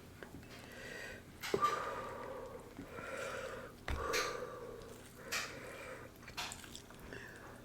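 Close-miked eating of king crab legs in sauce: wet slurping and chewing mouth sounds, with two sharp clicks about a second and a half and four seconds in.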